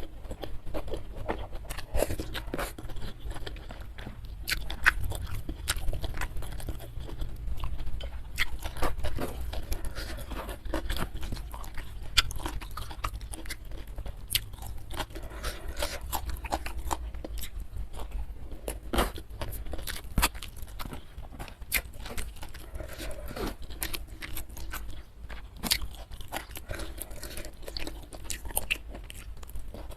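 Close-miked chewing of crunchy food, with many irregular sharp crunches and crackles from the mouth.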